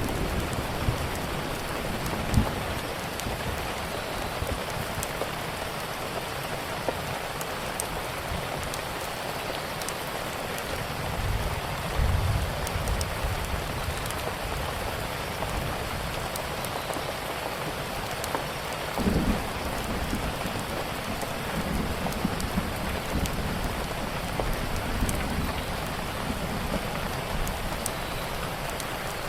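Steady rain falling, with faint scattered crackles from a wood fire. A few low rumbles swell up, about twelve and nineteen seconds in and again later.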